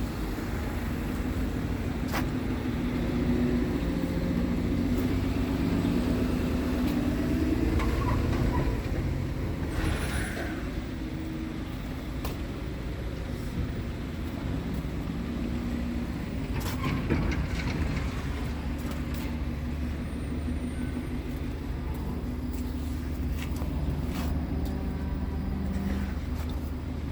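Scania R tractor unit's diesel engine running steadily, with a few sharp clicks along the way.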